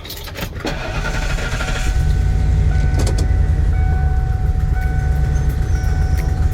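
A vehicle engine starting about a second in, then running with a steady low rumble.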